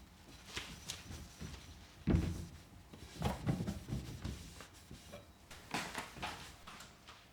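Items being handled and set down in a kitchen: a series of knocks and clatters, the loudest a deep thump about two seconds in, with more clusters of knocks a second later and near the end.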